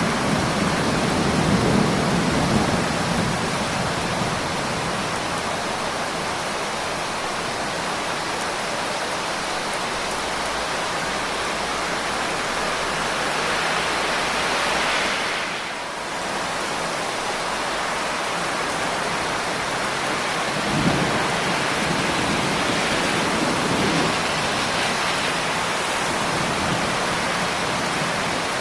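Steady heavy rain falling, with low rolls of thunder: one fading out at the start and shorter rumbles about two-thirds of the way through. The rain briefly dips in level about halfway.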